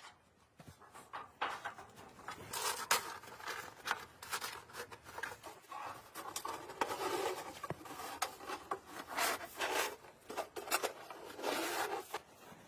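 Irregular rubbing and scraping with many short clicks and knocks, as of things being handled up close.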